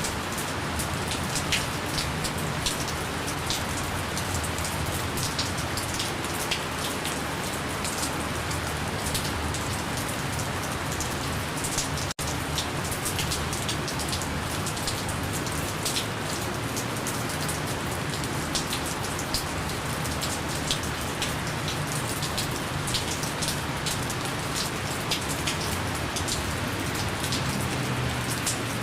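Gentle steady rain, a soft even hiss with many single drops pattering in it and no thunder. The sound cuts out for an instant about twelve seconds in.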